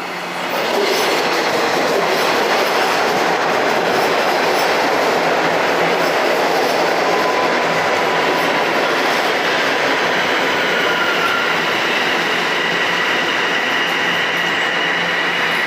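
TTC Toronto Rocket subway train running in the station: a loud, steady rumble of wheels on rail. A thin, faint whine joins in about ten seconds in.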